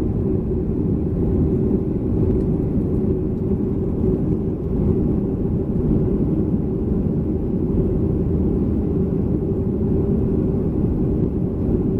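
Steady low rumble of a Boeing 737-300's CFM56 jet engines and airflow heard from inside the passenger cabin, with a faint steady hum in it.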